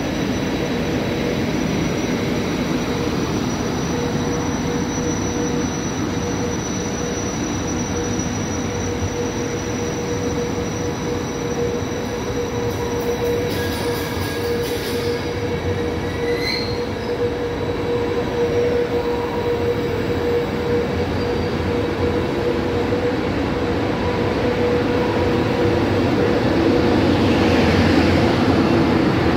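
Intercity passenger train rolling slowly past along a station platform: a steady rumble of wheels on rail with a held high tone, and a short squeal about halfway through. It grows louder near the end.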